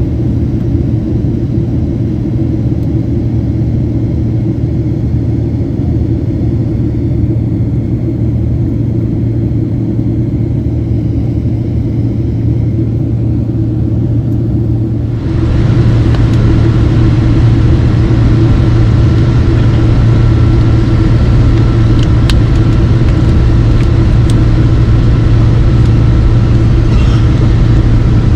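Steady, loud, low rumble of airliner cabin noise from a Boeing 767-300 with General Electric CF6 engines. About halfway through it jumps suddenly to a louder, fuller rumble with a faint steady whine over it.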